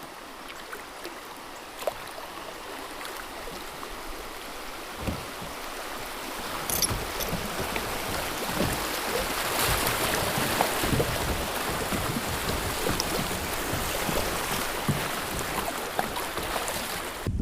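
River water rushing past a kayak, growing steadily louder, with scattered light knocks against the boat.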